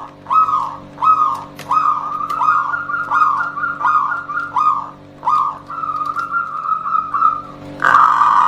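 Zebra dove (perkutut) cooing: a run of short, soft whistled notes about two a second that runs together into a longer rolling trill about six seconds in, with a louder note near the end. It is a dove call meant to set other perkutut cooing in answer.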